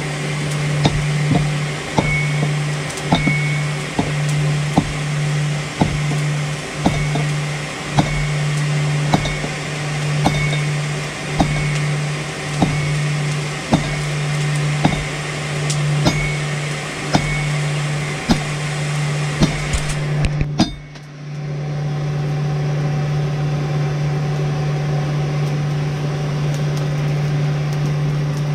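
Hammer striking hot steel on an anvil about once a second, each blow a sharp metallic clink, over a steady low hum. The blows stop about two-thirds of the way in and only the hum goes on.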